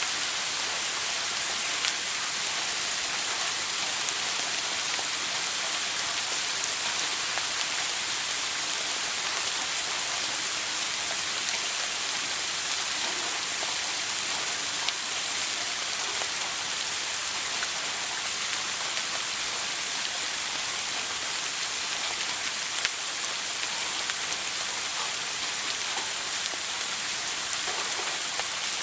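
Running shower water: a steady spray hiss with scattered droplet ticks.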